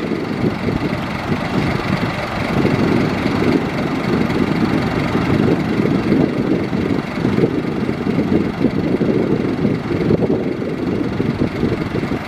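Heavy diesel engine of earthmoving machinery running steadily and loudly, with a dense low rumble.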